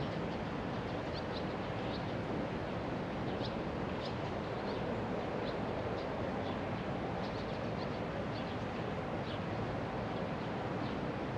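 Birds chirping, many short high notes scattered throughout, over a steady haze of outdoor background noise.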